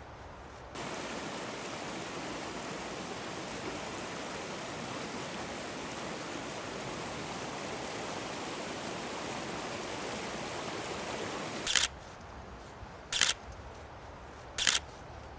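A steady, even hiss that starts and stops abruptly, lasting about eleven seconds. Then a camera shutter clicks three times, single shots a second or more apart.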